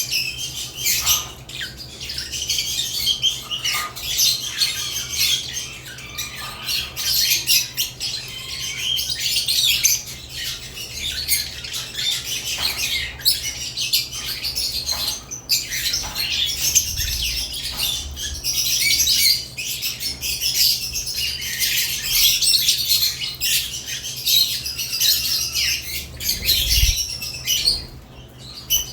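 Pet lovebirds chirping and squawking continuously in a cage, many short shrill calls overlapping, with a low steady hum underneath.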